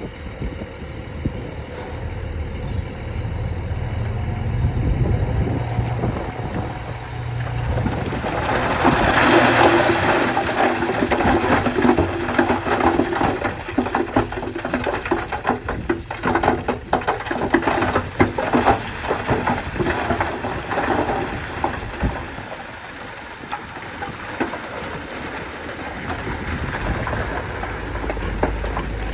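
Heavy diesel engine of a Shantui bulldozer at work: it runs steadily, then comes under heavier load from about eight seconds in, with dense rattling and clanking, and eases off again about two-thirds of the way through.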